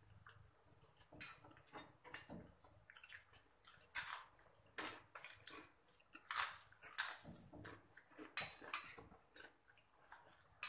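People chewing and crunching food as they eat quickly by hand. The crunches come irregularly, with several louder ones in the middle.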